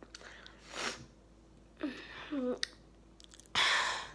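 A person chewing a chocolate-coated wafer bar, with mouth noises. A short hum falling in pitch comes about two seconds in, and a loud breathy rush near the end.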